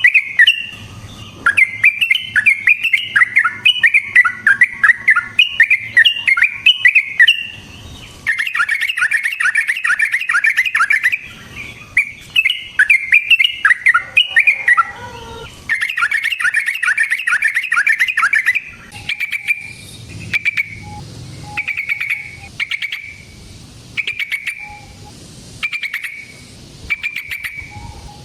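Yellow-vented bulbul (trucukan) song: loud, rapid, bubbling chattering phrases repeated over and over. About two thirds of the way through, it gives way to short separate call notes about once a second.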